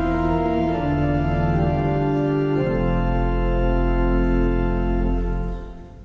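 Organ playing slow, sustained chords over a held bass, the last chord dying away near the end.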